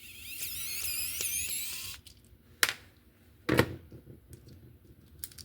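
Small screwdriver prying and scraping in a plastic slot car chassis to lever out the front magnet, giving a high, wavering squeal for about two seconds. Two sharp clicks follow, the second heavier.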